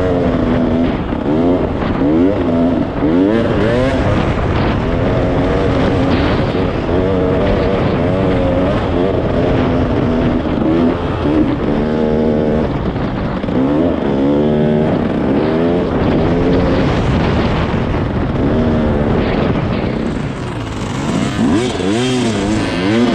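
Dirt bike engine revving up and down again and again as it is ridden, its pitch rising and dropping every second or so, over a steady rush of wind and noise.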